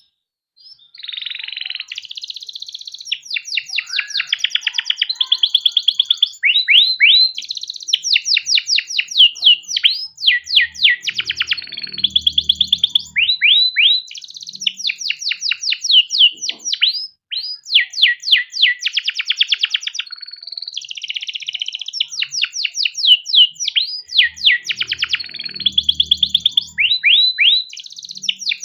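Domestic canary singing a long, nearly unbroken song of rolling trills: rapid runs of repeated high notes alternating with sweeping whistles, starting about a second in and breaking only briefly about two-thirds of the way through.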